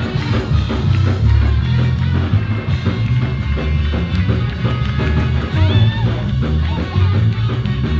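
Band music with a steady beat, with drums, heavy bass and guitar.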